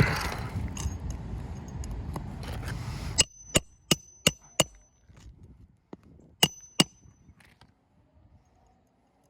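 Hammer driving roofing nails through a replacement asphalt shingle: five quick ringing strikes, then two more a couple of seconds later. Before them, a steady rushing noise that cuts off suddenly about three seconds in.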